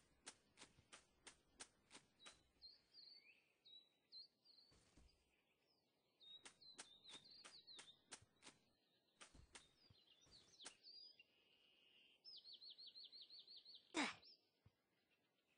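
Faint bird calls: short chirps and glides, and a fast trill of about eight notes a second near the end, among a run of sharp clicks. A single louder knock sounds shortly before the end.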